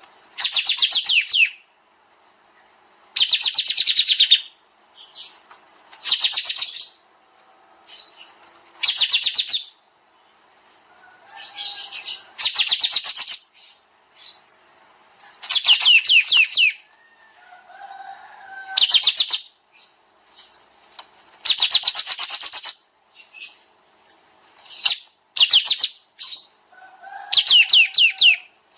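Kapas tembak songbird singing loud, rapid trilling bursts, each about a second long and repeated roughly every three seconds, with softer short chirps in between.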